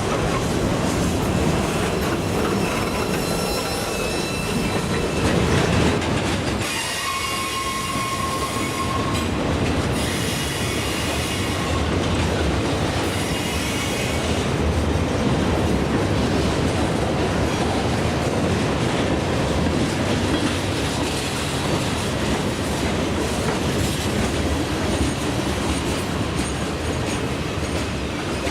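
A CSX freight train's cars rolling steadily past, wheels clattering on the rails, with intermittent high-pitched wheel squeal.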